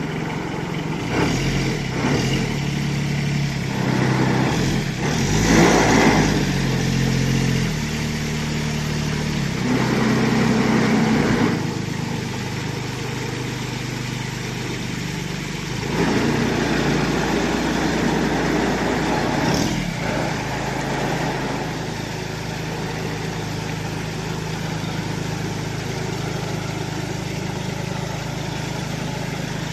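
Kubota D722 three-cylinder diesel engine driving a watering pump, changing speed several times over the first ten seconds or so, then running steadily.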